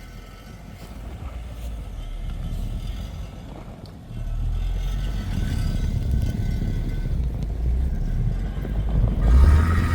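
Off-road vehicle's engine running under way, a low rumble that steps up in level about four seconds in and grows louder again near the end.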